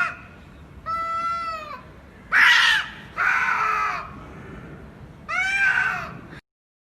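A cat meowing loudly and repeatedly: about five drawn-out meows, each rising then falling in pitch, before the sound cuts out abruptly near the end.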